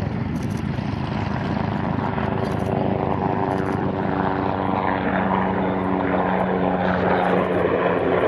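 Propeller aircraft flying over: a steady drone of engines and propellers that grows slightly louder toward the end.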